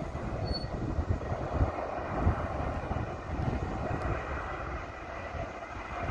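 Jet engines of a Ryanair Boeing 737 on approach: a steady roar with a faint whine, mixed with gusty wind rumbling on the microphone.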